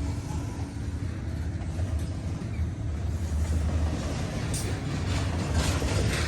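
CN intermodal freight train rolling past, a steady low rumble of wheels and cars on the track.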